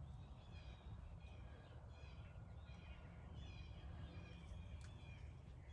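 Faint birdsong: short chirping phrases repeated over and over, over a low steady background hum.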